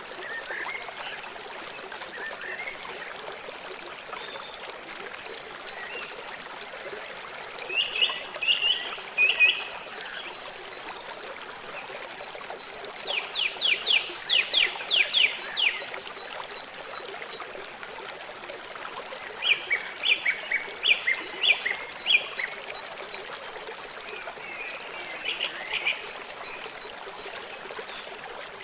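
A steady murmur of running stream water, with a songbird singing four short bursts of quick repeated high notes over it.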